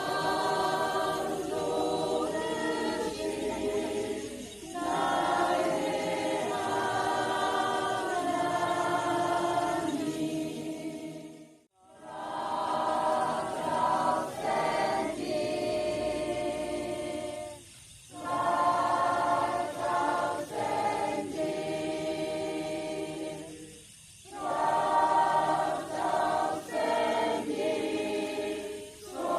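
A group of voices singing a Christian praise song in Thai, in long sung phrases separated by brief pauses.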